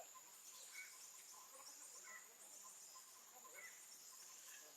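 Faint insect chirring, a steady high-pitched buzz, with short chirps repeating every half second or so.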